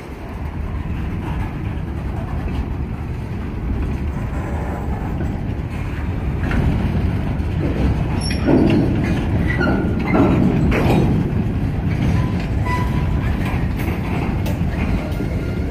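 CSX mixed freight train's cars rolling past: a steady rumble of wheels on rail with clickety-clack over the joints. Louder rattling and clanking from the cars about halfway through.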